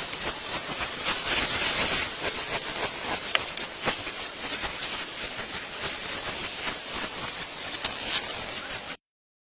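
Steady hissing noise with many small crackles and ticks, cutting off suddenly about nine seconds in.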